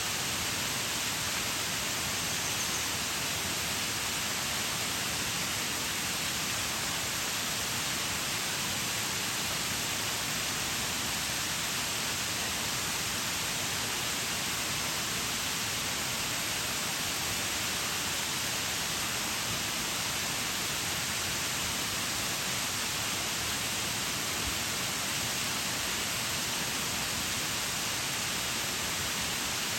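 Waterfall rushing and splashing: a steady, unbroken hiss of falling water, strongest in the high range.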